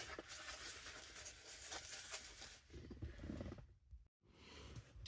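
Faint scratching and handling noises, with a brief gap of silence about four seconds in.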